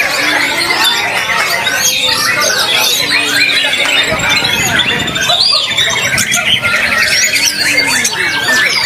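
White-rumped shama (murai batu) singing a rapid, varied song of whistles, chirps and harsh squawky notes, thick with overlapping phrases, with a fast even trill about six seconds in.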